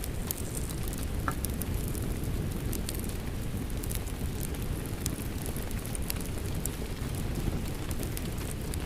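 Fireplace crackling, with scattered sharp pops and ticks, over the steady low rush of rain.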